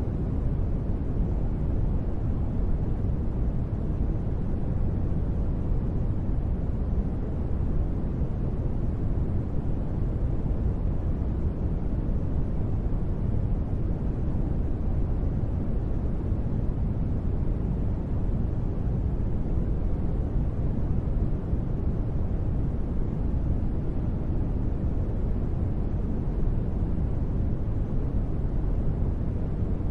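Steady, unbroken ambient noise for sleep or relaxation, deep in tone with most of its energy in the low end. It is even throughout, with no tones or separate events.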